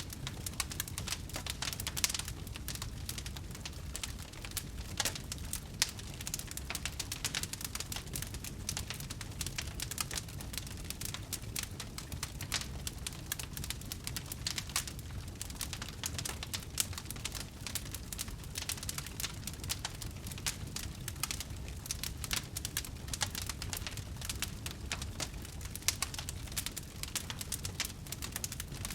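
Wood fire crackling steadily, with many small irregular pops and snaps over a low steady rumble.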